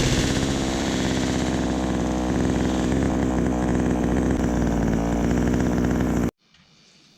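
Two-stroke chainsaw running at a steady speed, then cutting off abruptly about six seconds in.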